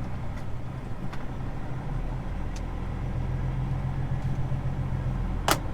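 Grain truck's diesel engine running steadily at low revs, with a single short sharp click near the end.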